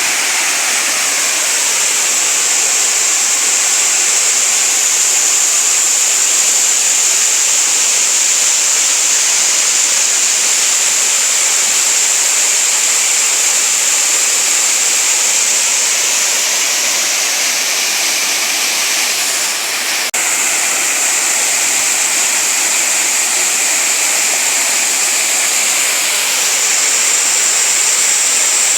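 Waterfall: water falling and running in a steady rush, with a brief dip and a faint click about two-thirds of the way through.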